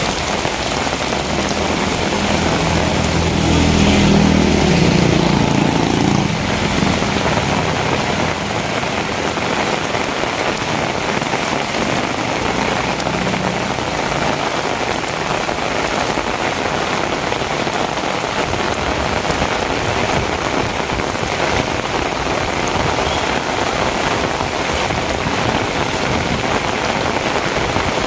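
Heavy rain falling steadily. A low rumble swells and fades between about two and six seconds in.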